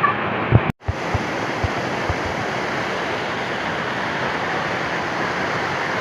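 Waterfall rushing steadily, an even wash of falling-water noise. It is broken by a brief dropout under a second in, and a few soft low thumps come in the first two seconds.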